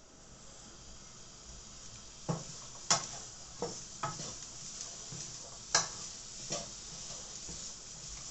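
Food sizzling in a pan on the hob, with a utensil knocking against the pan about six times as it is stirred.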